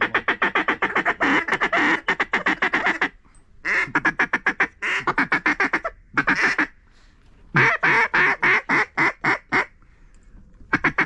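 Loud duck quacking in several fast runs of short, evenly spaced quacks with brief pauses between them.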